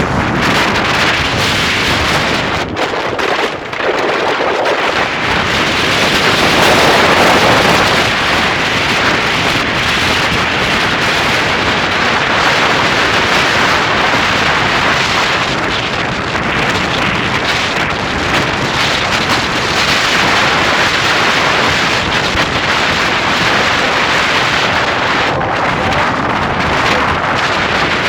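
Loud, steady wind buffeting the microphone from a moving vehicle, mixed with road noise.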